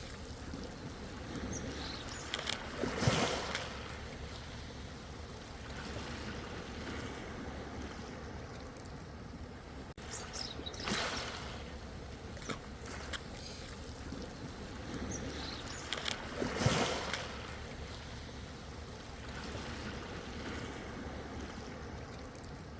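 Ocean waves washing in, a steady rush with louder wave surges about three seconds in and again near the end.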